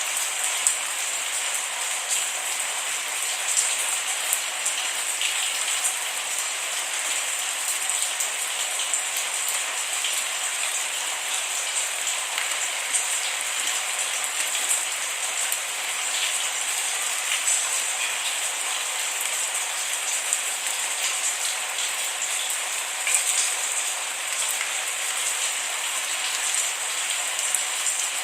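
Steady rain falling on a surface, a dense even hiss with scattered individual drop taps, and no thunder.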